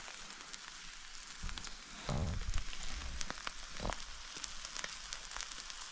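Beef tomahawk steaks sizzling as they sear over open campfire flames, with the wood fire crackling in sharp clicks. A louder, deeper rush rises about two seconds in and eases off within a second or so.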